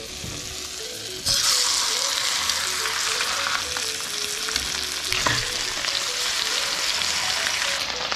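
Whole brook trout frying in hot oil and butter in a cast-iron skillet. A quieter sizzle jumps to a loud, steady sizzle about a second in as the buttered side of the fish goes into the pan, and there is a light knock about five seconds in.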